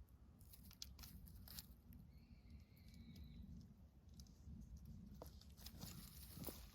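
Faint, scattered crackling and rustling, typical of a small wood campfire burning, with a thin whistling tone for about a second near the middle.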